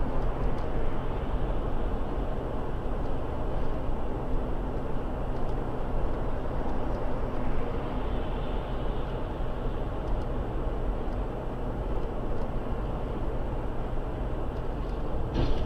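Steady road and engine noise of a car driving, recorded from inside by a dashcam, with a low engine hum and no sudden impacts.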